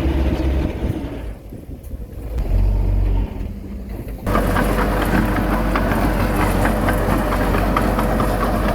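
Heavy diesel engine of earthmoving machinery running, its note dropping and picking up again in the first few seconds. About four seconds in it switches abruptly to a louder, steady engine sound with a dense rattle over it.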